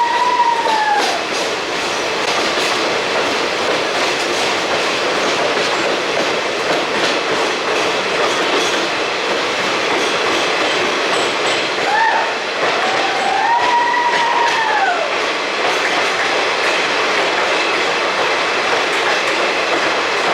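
Passenger train of ICF coaches running along the track: a steady rushing rumble with clickety-clack of the wheels over rail joints. Brief squealing tones that rise and fall in pitch come through right at the start and again around twelve to fifteen seconds in.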